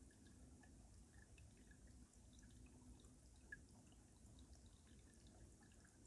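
Faint stream water trickling under ice: many small scattered drips and plinks over a low, even rush, with one slightly louder plink about three and a half seconds in.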